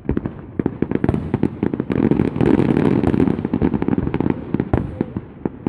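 Fireworks going off: a quick run of bangs and crackles that thickens into a dense, loud barrage about two seconds in, then thins out to scattered bangs near the end.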